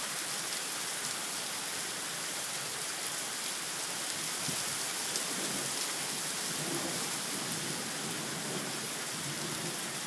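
Heavy rain pouring steadily onto a paved street and driveways, an even hiss with no let-up.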